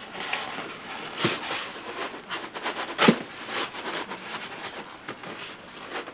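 Cardboard packaging being handled as a boxed tabletop Christmas tree is pulled out of it: rustling, small clicks and scraping, with two louder scrapes about a second in and about three seconds in.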